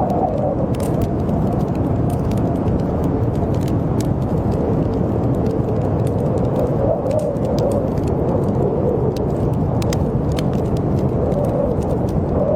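Blizzard wind howling steadily, its pitch wavering up and down, with a wood fire crackling in scattered sharp pops over it.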